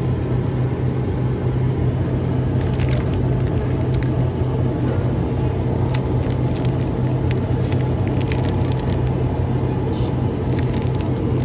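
Steady low rumbling hum of machinery or ventilation, with scattered light clicks and taps of handling.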